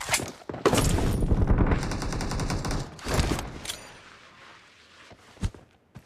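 Automatic gunfire in a shooter video game: rapid, evenly spaced shots for about three seconds, then fading away to a few faint ticks near the end.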